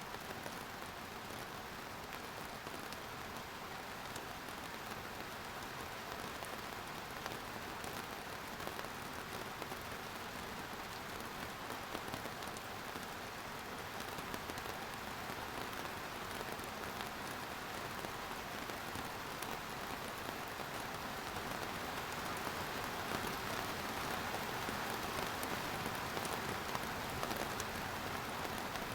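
Steady rain falling and pattering on surfaces, a dense even hiss with fine scattered drop ticks, growing slightly heavier in the second half.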